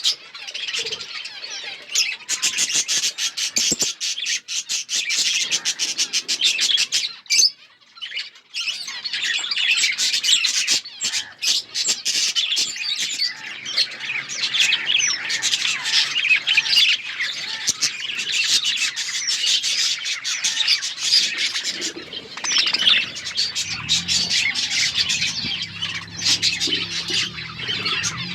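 A flock of budgerigars chattering and chirping continuously, many birds overlapping, with a brief lull about seven seconds in. A rapid run of clicks is mixed in during the first several seconds.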